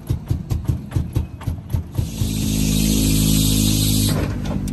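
Engine of an off-road car pulsing rapidly and evenly at low speed, then running steadily under a broad hiss from about two seconds in, easing off near the end.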